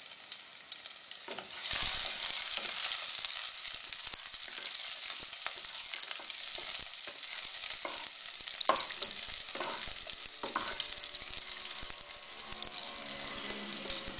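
Chopped garlic and chilies sizzling in hot vegetable oil in an electric pan. The sizzle gets louder about two seconds in. A black spatula stirs them, scraping and knocking against the pot several times in the second half.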